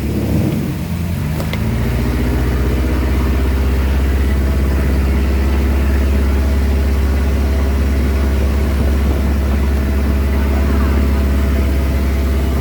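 Boat engine running steadily under way, a loud, even drone, its pitch picking up and settling in the first second or two.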